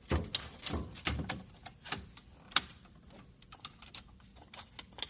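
Irregular clicks, knocks and dull clunks of plastic and metal parts being handled, as a vending machine's bill acceptor and recycler unit are opened up and worked on. The heavier clunks fall mostly in the first couple of seconds, and lighter clicks follow.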